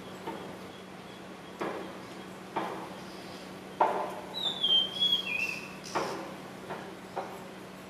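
Outdoor ambience: a bird's short whistled call, gliding down in two steps about halfway through. It sits over a steady low hum and a few soft, dull knocks roughly every second.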